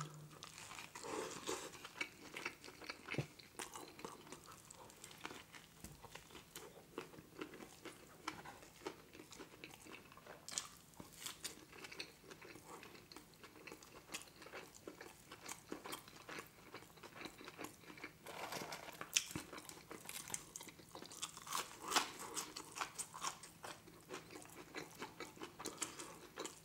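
Close-miked chewing of a McDonald's burger, with many small wet mouth clicks and smacks.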